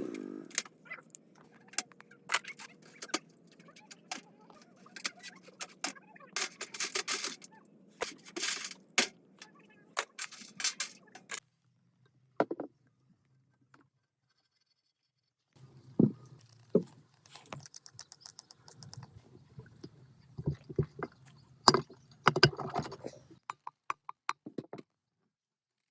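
Metal parts and hand tools clinking, tapping and scraping in a run of short, irregular knocks, broken by a few seconds of silence midway.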